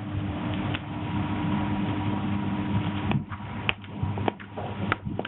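A campfire crackling, with a few sharp pops in the second half, over a steady low electrical hum.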